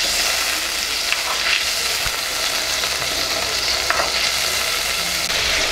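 Prawns frying in hot groundnut oil in a clay pot: a steady sizzle, with a few light ticks as a ladle stirs them.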